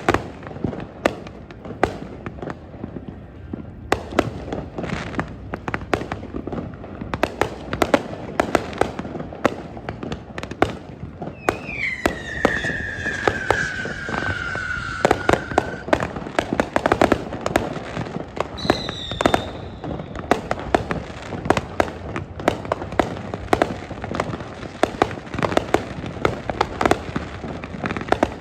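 Fireworks display: a rapid, continuous string of aerial shell bangs and crackles. About twelve seconds in, a long whistle falls in pitch for about four seconds, and shorter high whistles cut through near the middle and at the end.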